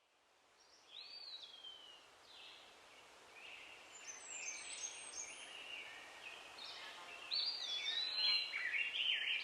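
Several birds singing and calling, short whistled notes and chirps with a longer falling whistle about a second in, over a steady outdoor hiss. It fades in from silence and grows busier and louder toward the end.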